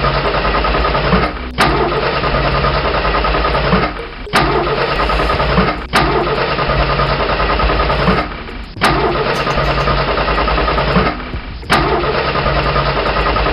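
Tractor-style engine running steadily, broken by abrupt cuts and clicks every two to three seconds, as if pieced together from short takes.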